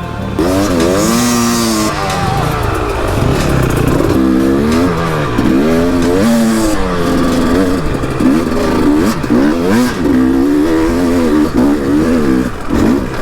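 Enduro motorcycle engine revving up and down over and over, its pitch climbing and dropping every second or two as the throttle is worked.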